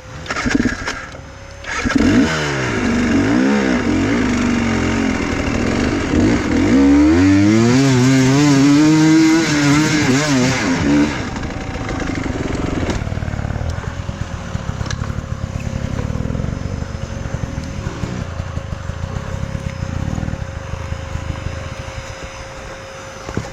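Enduro motorcycle engine revving up and down again and again under throttle, loudest in the first half. After about eleven seconds it runs lower and more evenly.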